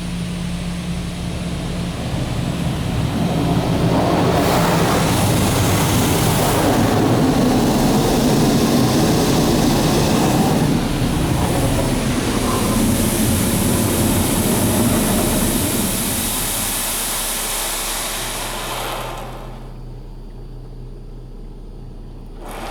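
High-pressure water jets of a Belanger Vector automatic car wash spraying the driver's side of the vehicle, heard from inside the cabin as a loud, steady hiss and spatter on the body and glass. The spray eases off and stops near the end, leaving a low steady hum.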